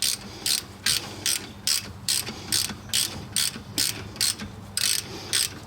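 Hand ratchet wrench clicking in quick, even back-and-forth strokes, about three a second, running a threadlocked bolt in on the brake caliper.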